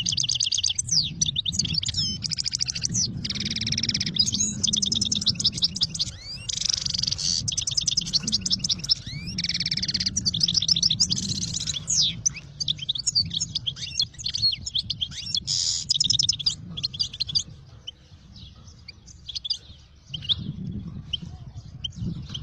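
Many small birds chirping and twittering in quick, overlapping trills, thinning out for a few seconds near the end, over a steady low rumble.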